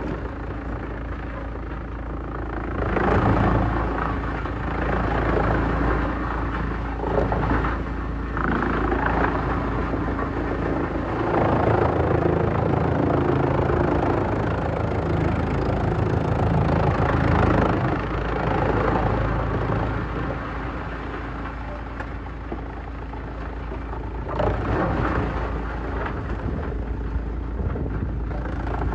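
Heavy-duty wood chipper running continuously with a steady low hum, growing louder in stretches of several seconds as wood goes through it and is shredded.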